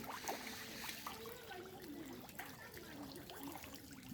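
Pond water trickling, with light small splashes at the surface.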